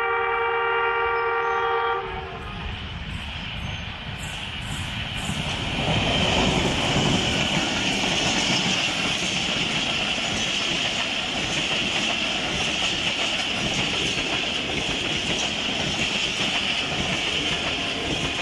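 A diesel-hauled passenger express runs through the station without stopping. Its locomotive horn sounds for about two seconds, then the locomotive grows louder and passes about six seconds in. Its coaches follow, rolling steadily by with clickety-clack on the rails.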